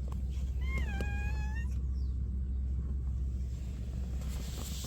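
A stray cat meows once, about a second long, the pitch dipping slightly after the start, over a steady low hum.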